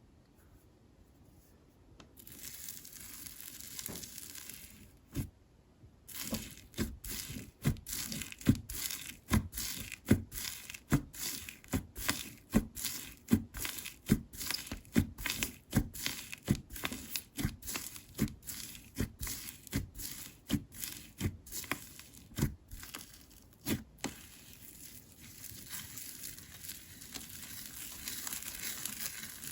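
Slime being squished and pressed by hand, making sharp wet pops about twice a second, with crackly, crinkling stretching sounds near the start and again near the end.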